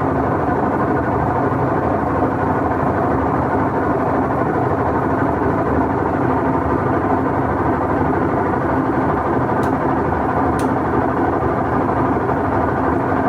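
Whirlpool washing machine running with a steady drone from its gearbox, the sign of the gearbox fault it is being checked for. Two short clicks come about a second apart late on.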